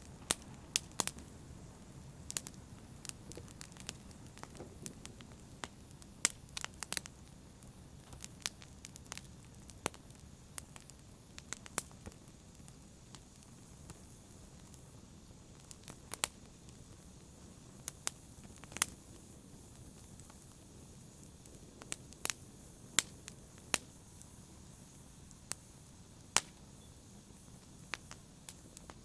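Wood fire burning, with a low steady rumble and frequent sharp, irregular crackles and pops.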